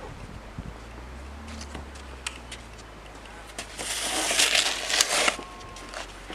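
Snow crunching and scraping, with a louder stretch of about a second and a half just after the middle, over a low steady hum.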